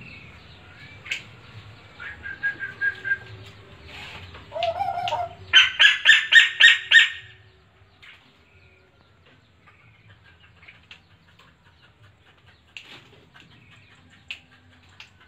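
Caged tuwu bird calling: scattered short chirps, then a loud run of about seven rapid notes about six seconds in.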